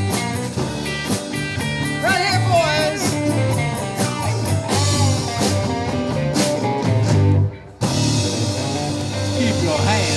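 Live rock band (electric guitar, bass and drums) playing a blues-rock song, with the guitar bending notes. About seven and a half seconds in the band stops short, then hits one last sustained chord that rings on.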